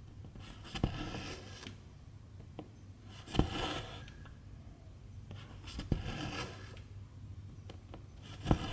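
Cross-stitch needle punching through 11-count fabric with a sharp click, then the silk thread drawn through with a rasping rub. Four stitches, about every two and a half seconds.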